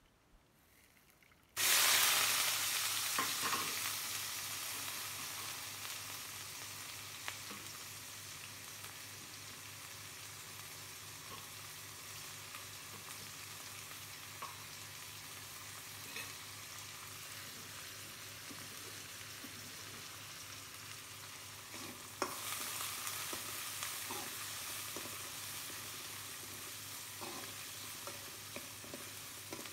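Sliced onions and curry leaves drop into hot oil about a second and a half in, setting off a loud sizzle that slowly dies down to a steady frying hiss. About two thirds through, the sizzle flares up again as a spatula stirs the onions, with scraping clicks against the pan.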